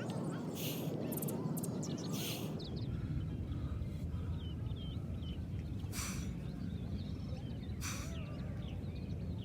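Outdoor ambience: a steady low rumble with small birds chirping, broken every couple of seconds by short, sharp breathy hisses.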